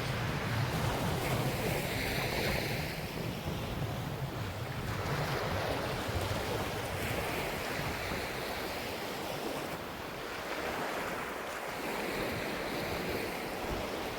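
Ocean surf washing onto a beach, swelling and easing about every five seconds, with wind rumbling on the microphone.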